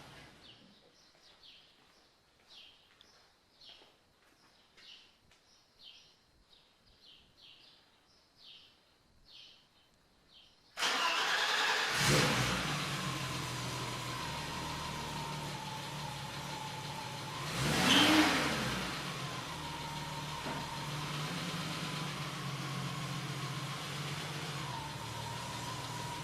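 A quiet stretch of faint, repeated high chirps, then about eleven seconds in a car engine starts suddenly and runs steadily, swelling briefly once in the middle.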